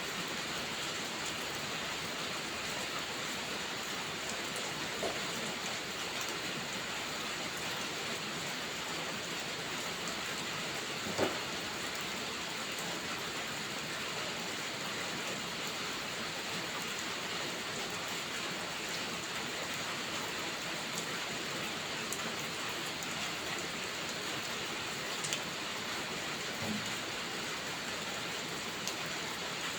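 Steady rain falling, an even rushing hiss, with a few isolated sharp pops scattered through, the loudest about eleven seconds in.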